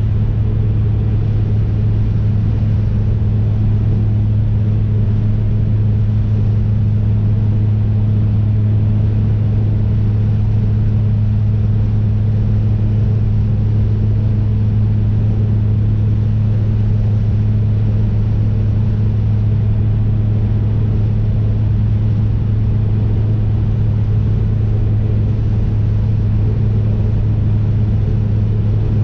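1990 BMW E30 M3's S14 four-cylinder engine running at a steady cruise, heard from inside the cabin over tyre and road noise. Its pitch holds constant, with no shifts or revving.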